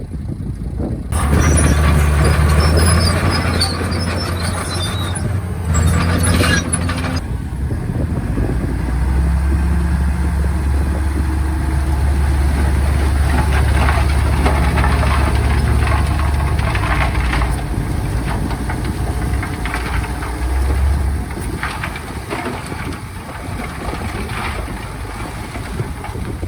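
Komatsu D51PX bulldozer's diesel engine working, its low note swelling and easing with the load. There are high squeals about two to three seconds in and scattered metallic clanks, typical of the steel tracks and blade.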